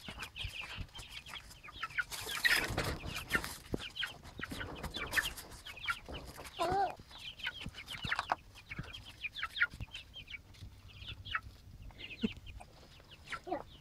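Baby chicks peeping: many short, high calls scattered throughout, with a brief scuffling noise about two and a half seconds in.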